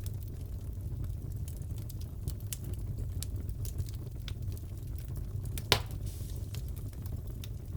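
Wood fire crackling in a fireplace: scattered small pops and snaps over a steady low rumble, with one louder pop about six seconds in.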